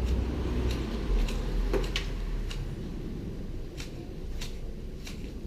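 Hand pruning shears snipping the twigs of a shrub being clipped into a ball: a string of sharp, irregular snips, with a short pause a little past the middle.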